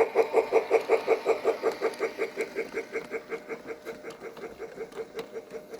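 Sound effect from a model Polar Express steam locomotive (Pere Marquette 1225): a rapid, even pulse of about five beats a second at a steady pitch, fading gradually.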